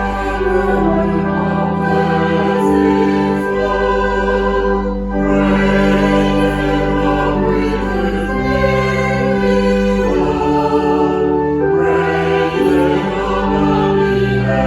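Choir singing slow, sustained chords with instrumental accompaniment, in long phrases broken by short breaths about every five to six seconds.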